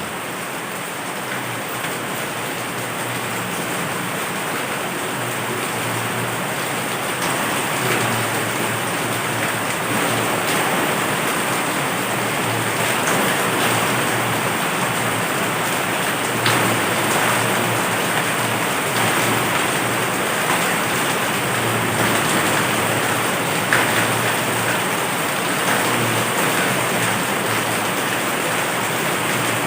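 Heavy rain falling steadily, with a few louder single drops ticking now and then.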